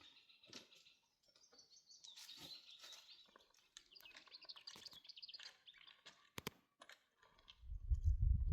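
A small songbird singing a run of quick, high repeated chirps, followed near the end by a loud low rumble.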